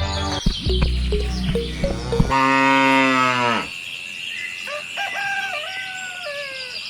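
A cow mooing once: a long call of about a second and a half, starting about two seconds in and dropping in pitch as it ends. It is preceded by music with steady low notes and followed by a thinner, higher wavering call.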